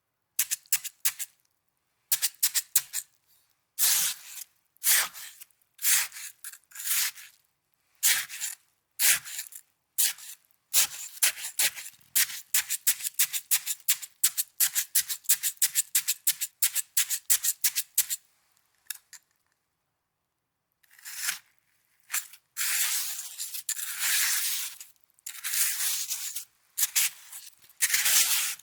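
Snow being handled close to the microphone: rapid, crisp crackling crunches, then a short pause, then longer rasping crunches as it is pressed and rubbed.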